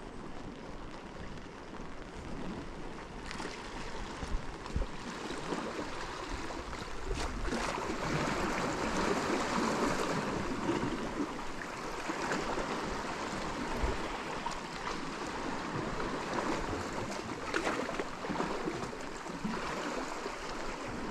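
Rushing water noise, swelling louder for several seconds in the middle and then easing, with scattered faint ticks.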